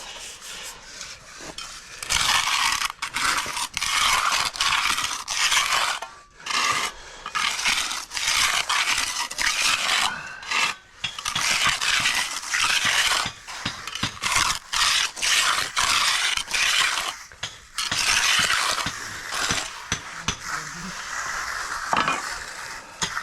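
Concrete finishing tool scraping across a freshly poured concrete slab in repeated strokes, each about half a second to a second long, starting about two seconds in.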